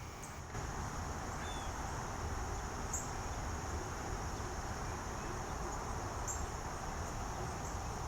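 Steady high drone of an insect chorus, with a few short, high chirps from birds about three, six and eight seconds in.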